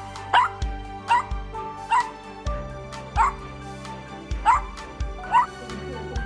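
Dog giving short, high-pitched yelps, about six of them roughly a second apart, as it looks for its hidden people.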